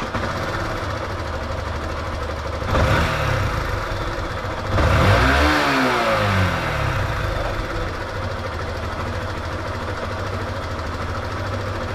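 Yamaha Factor 125's single-cylinder four-stroke engine idling with freshly adjusted valves. It is revved twice, a short blip about 3 seconds in and a longer, louder one about 5 seconds in, each rising and falling in pitch, then it settles back to a steady idle.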